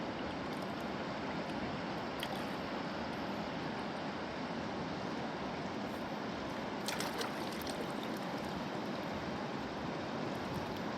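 Steady rush of river water flowing fast, with a brief sharp clatter about seven seconds in.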